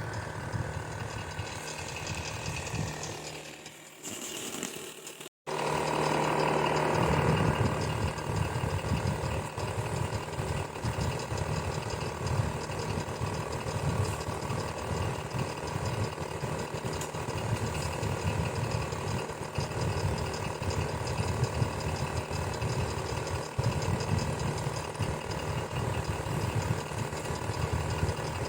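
Electric fan running steadily, its motor hum carrying a fast, rattling texture. About five seconds in the sound dips, cuts out for a split second, then resumes a little louder.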